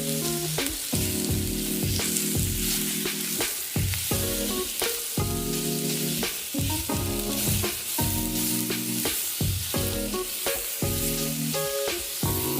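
Food sizzling over a campfire, a steady frying hiss, under background music of held chords that change every second or two.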